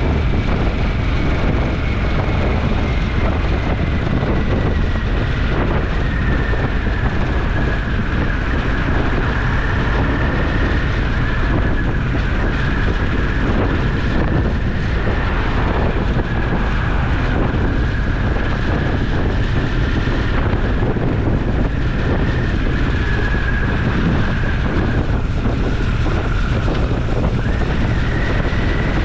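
Motorcycle riding at speed: the engine runs steadily under heavy wind rush on the helmet-mounted action camera's microphone. A high whistling tone drifts slowly up and down in pitch over the rumble.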